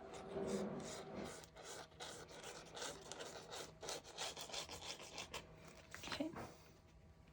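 Quick repeated rubbing strokes on paper or card, about two to three a second: a freshly glued album page being rubbed down so it bonds.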